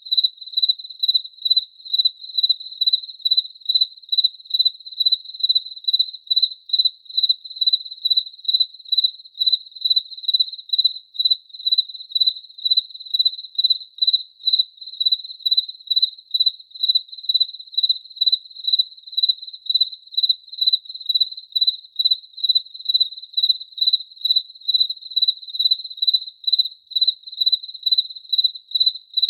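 A cricket chirping in a steady, even rhythm, about three chirps every two seconds, each chirp a single clear high-pitched note.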